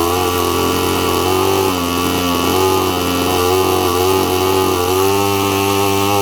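TOYAN miniature twin-cylinder model engine running steadily, its pitch dipping slightly about two seconds in and again near five seconds.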